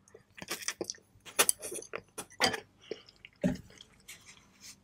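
Close-miked eating sounds of a pho noodle meal: chewing with a string of short, sharp clicks and clinks, and one heavier knock about three and a half seconds in.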